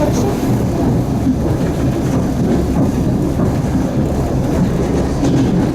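Passenger train carriage running along the track: a steady, loud rumble of wheels on rails heard at the carriage window.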